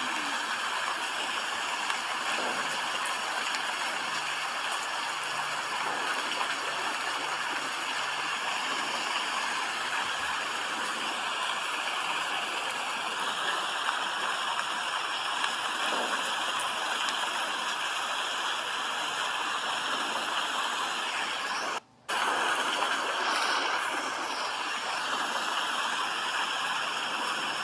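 Steady rain falling as an even hiss. It cuts out for a split second about three quarters of the way through, then comes back slightly louder.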